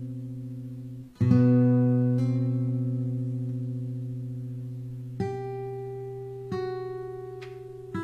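Background music: acoustic guitar playing slow, ringing chords and plucked notes. Each is left to fade before the next, with the loudest chord about a second in.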